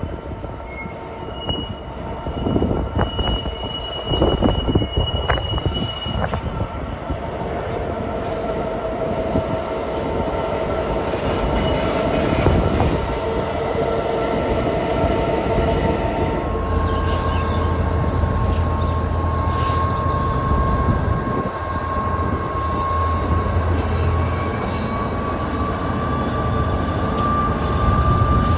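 Train wheels squealing against the rails as the train rolls past, with several long, steady squealing tones at once. Knocks sound over the first few seconds, and a low rumble joins about halfway through.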